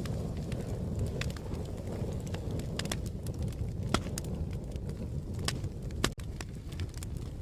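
Fire crackling: a steady low rumble of flames with irregular sharp pops and snaps scattered through it. The sound briefly cuts out about six seconds in.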